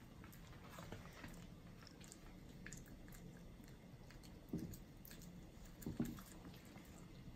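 Faint chewing on soft songpyeon rice cake, with small wet clicks and two louder bites about four and a half and six seconds in.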